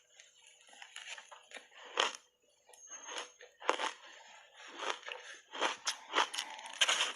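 Shaved ice being bitten and chewed in the mouth: a run of irregular, crisp crunches, thickest near the end.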